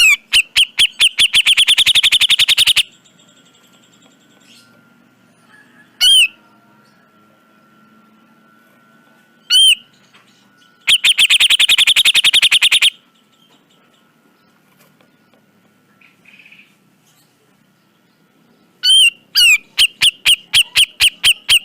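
Cucak jenggot (grey-cheeked bulbul) calling in three loud bouts of rapidly repeated harsh notes, about ten a second, each lasting two to three seconds, with two single sharp calls in the gaps between them. A faint steady thin whistle-like tone runs underneath in the pauses.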